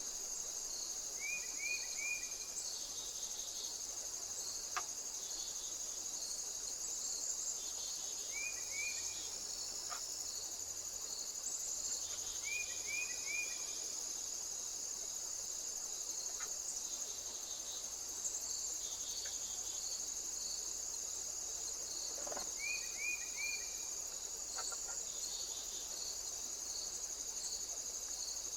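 Steady high-pitched chorus of crickets or similar insects, with a regular pulsing chirp beneath the continuous drone. A bird gives short calls of three quick notes, repeated every few seconds, and a few sharp clicks sound now and then.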